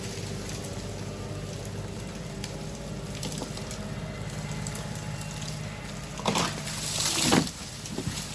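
LS XR3135 compact tractor's diesel engine running steadily under load as it drags a hung-up dead ash tree on a chain. Near the end comes a loud rushing crash of wood and branches, building to a peak and stopping short, as the tree comes down.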